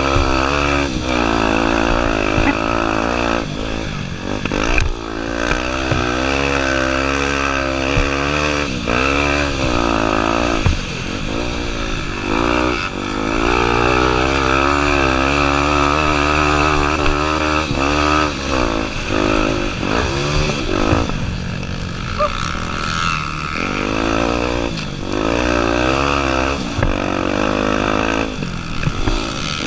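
Honda Tornado 250's single-cylinder four-stroke engine being ridden hard, its pitch rising and falling every second or two with frequent short drops where the throttle closes.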